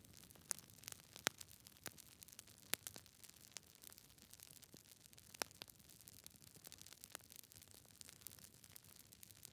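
Wood fire burning in a fireplace: logs crackling with irregular sharp pops, a few louder than the rest, over a faint steady hiss.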